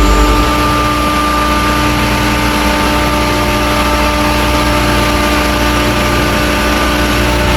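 Water-cooled screw chiller running: a steady mechanical hiss and hum with several steady whining tones over it.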